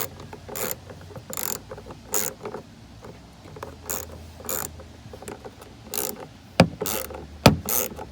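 Hand ratchet clicking in repeated short strokes while working a fastener on a truck door, with a few sharper, louder clicks near the end.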